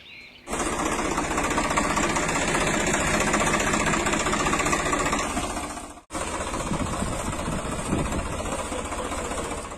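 A tractor engine running steadily with a fast, even chug. It starts about half a second in and cuts off abruptly for an instant about six seconds in, then carries on.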